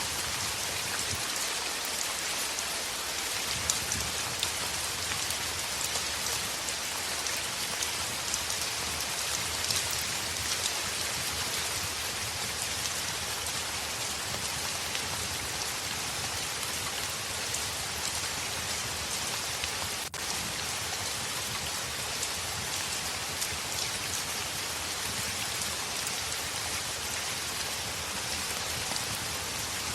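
Steady heavy rain hissing on a window or surface, dense with scattered small ticks and patters of drops. There is a momentary dropout about two-thirds of the way through.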